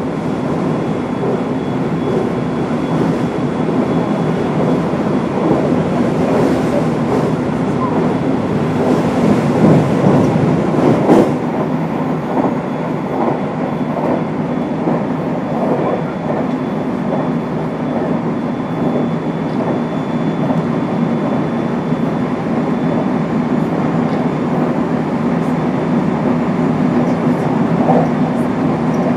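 Running sound of a JR West 223 series 5000 electric train heard from inside the car: a steady rumble of wheels on rail at speed, with a few louder clacks around ten seconds in.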